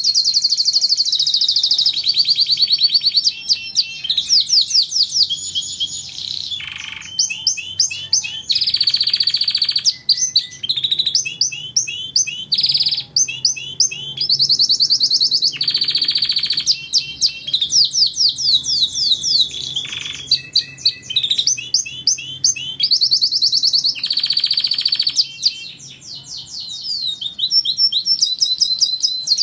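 Domestic canary singing continuously in fast trills and rolling runs of rapid high chirps, phrase after phrase with hardly a break.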